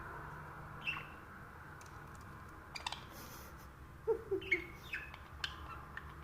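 Budgerigar giving short, scattered chirps and squawks, with a quick cluster of them in the second half, over a steady background hum.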